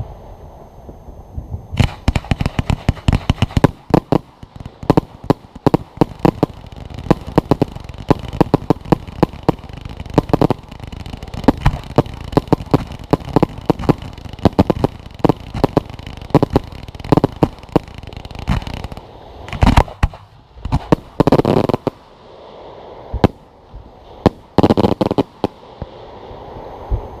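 Fireworks display: a dense, rapid string of bangs and crackles for about fifteen seconds, then a few separate louder bursts, each followed by a spell of crackling, near the end.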